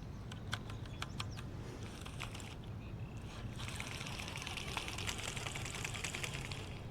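Faint small clicks and knocks on a kayak, then from about halfway a steady fine trickling splash of a man urinating over the side of the kayak into the lake.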